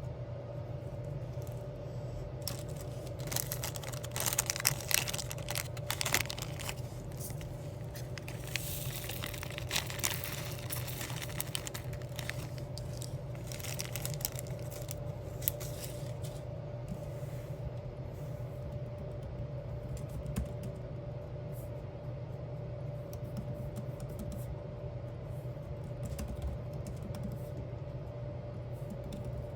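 Diamond art crafting handling: crinkling of the sticker sheet with quick small clicks and taps, busiest in the first half, over a steady low hum.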